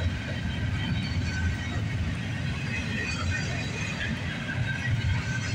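Double-stack intermodal well cars rolling past on the rails: a steady low rumble of the wheels, with faint, brief high squeals coming and going.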